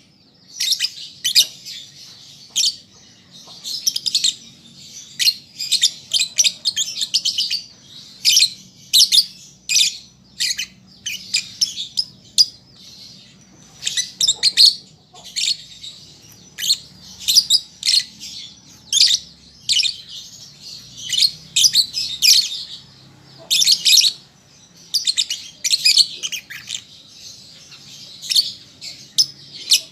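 Lovebird chattering: quick runs of shrill, high chirps, one after another, broken only by brief pauses.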